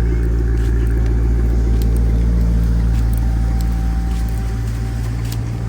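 Motor vehicle running steadily: a loud, even low hum of engine and road noise, with a faint steady higher tone above it, easing off slightly near the end.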